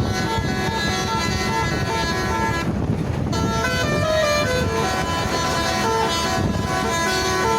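Musical truck horn playing a tune, its notes stepping up and down several times a second over a steady engine rumble. The melody drops out briefly about three seconds in, then resumes.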